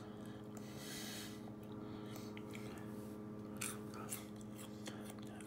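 Someone chewing a dry piece of Pop-Tarts brown sugar cereal, faint crunching with a few crisp clicks, over a steady low hum.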